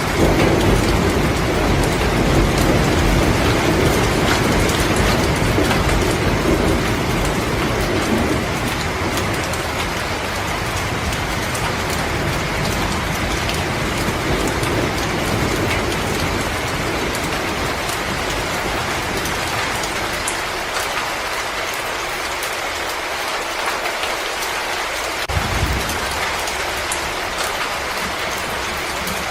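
Wood fire crackling in a fireplace: a steady hiss full of small pops and crackles. A low rumble underneath fades out about eight seconds in, and there is one soft low thump near the end.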